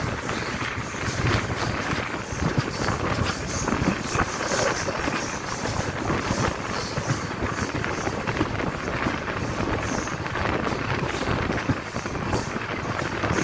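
Passenger train running steadily, heard from aboard: the rush of wind and the rumble and clatter of wheels on the track, with wind buffeting the microphone.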